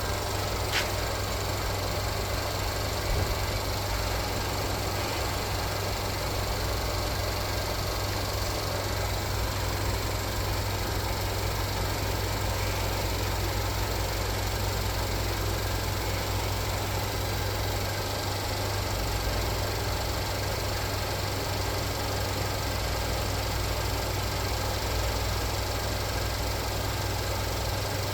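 An engine running steadily at idle on a test run, with a constant low drone and no change in speed. There is a single short click about a second in.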